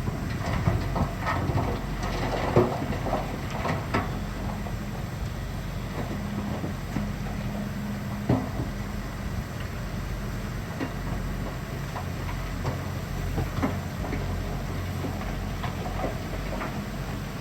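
Shantui bulldozer's diesel engine running steadily, with clanks and knocks from the steel tracks and blade. The clanks cluster in the first few seconds, and a sharp knock comes about eight seconds in.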